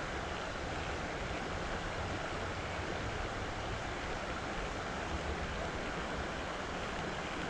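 Steady rushing of creek water, an even hiss with some low wind rumble on the microphone.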